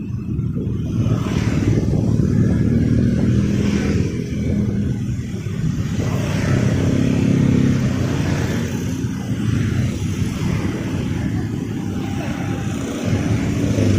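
Street traffic: engines of passing vehicles, a continuous rumble that swells and fades as they go by.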